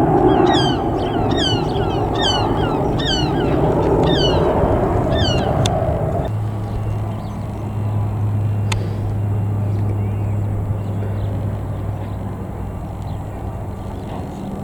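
A bird calls over and over with short downward-sliding notes, about two a second, against a steady rumble from distant jet airliner engines. About six seconds in, the rumble and the calls cut off suddenly and a steady low hum remains.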